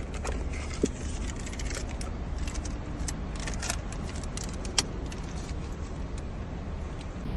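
Car engine idling with a steady low rumble, over repeated light jingling and small clicks of things being handled, with two sharp clicks about one second and five seconds in.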